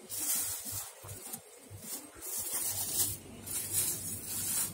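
Thin plastic bags holding napa cabbages rustling as a hand pulls them open, in repeated short bursts.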